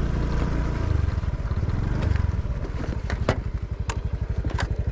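Motorcycle engine running on a rough, unmaintained road. About two and a half seconds in it settles into an even, low putter, and several sharp knocks come through near the end.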